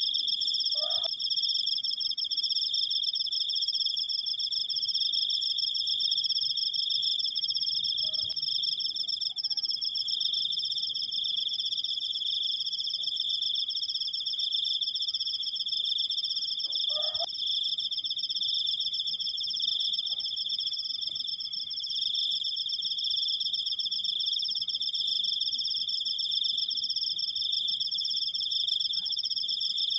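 Crickets trilling without a break: a steady, high-pitched, rapidly pulsing trill at two pitches at once. A brief faint lower chirp sounds about a second in and again about halfway.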